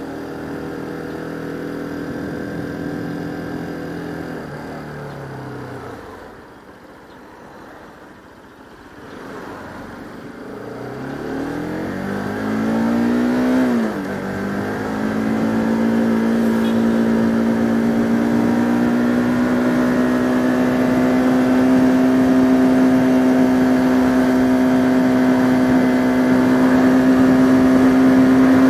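Bajaj Pulsar RS200 single-cylinder motorcycle engine. The revs fall away and settle low for a few seconds, then climb steeply under acceleration. About 14 seconds in the pitch drops sharply at an upshift, and the engine then runs steadily with slowly rising revs.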